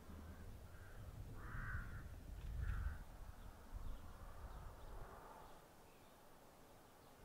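Harsh bird calls outdoors, a few short rough calls in a row with the loudest about one and a half seconds in and a fainter one near five seconds, over a low rumble.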